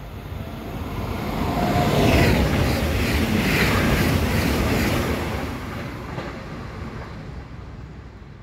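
A train passing at speed: its rushing noise builds over about two seconds, stays loud for about three, then fades away.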